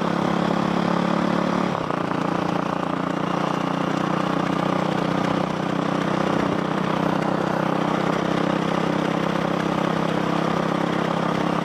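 Yamaha WR450F's single-cylinder four-stroke engine running steadily through an FMF aftermarket exhaust, its note shifting slightly about two seconds in.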